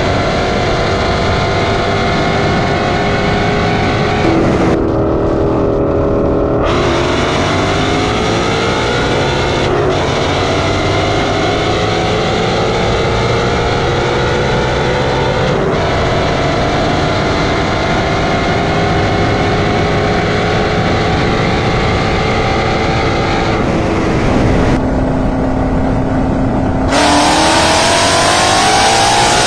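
Performance cars accelerating hard on roll-race runs. The engine note climbs in pitch again and again, dropping back between climbs, as at gear changes.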